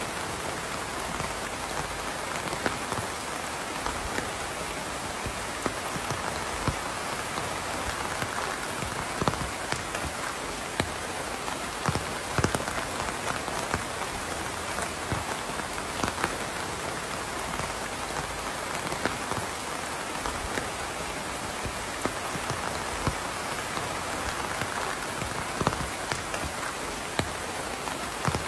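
Steady rain falling, with scattered louder drops striking a few times a second.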